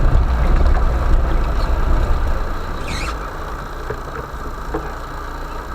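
Vehicle engine running steadily at low revs while driving slowly along a forest track, dropping in level about two and a half seconds in as it eases off.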